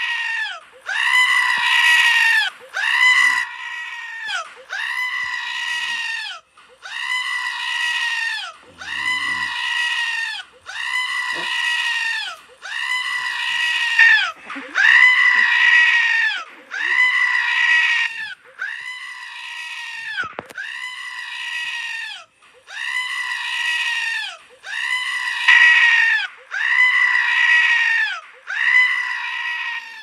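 A recorded scream-like cry, loud and wavering, each one dropping in pitch at its end, played back as a loop so that the same call repeats over and over about once a second.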